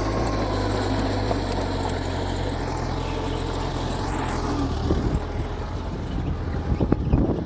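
Mitsubishi bulldozer's diesel engine running steadily with a low drone, with a few sharp metallic knocks near the end.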